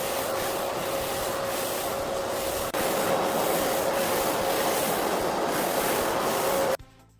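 A power tool running steadily with a grinding, rubbing noise over a steady hum; it breaks off briefly a little under 3 seconds in, then stops abruptly near the end.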